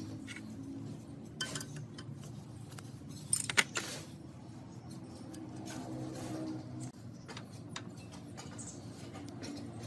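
Scattered sharp metal clinks and knocks, loudest in a quick cluster about three and a half seconds in, over a steady low hum.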